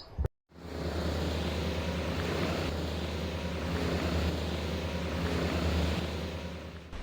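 Motorcycle riding at a steady speed: the engine's even low hum under a continuous rush of wind and road noise.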